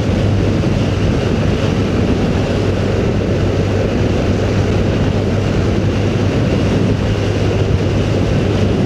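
A motorcycle being ridden at a steady speed: an even engine hum under loud rushing wind noise.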